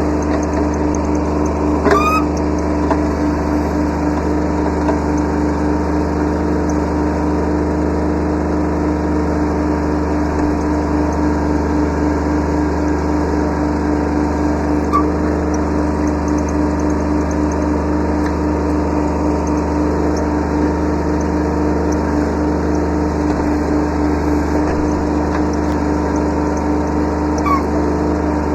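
Kubota B7100's small three-cylinder diesel engine running steadily at a constant speed, with short rising squeaks about two seconds in and again near the end.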